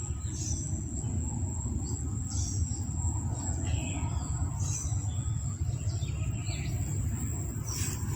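Short bird chirps, scattered every second or two, over a steady low rumble.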